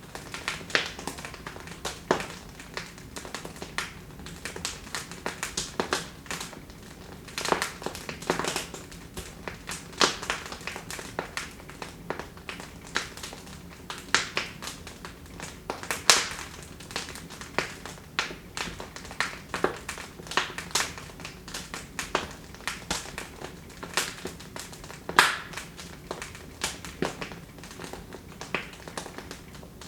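Wood fire in a fireplace crackling: irregular sharp pops and snaps over a low steady hiss, with two louder pops, one about halfway through and one near the end.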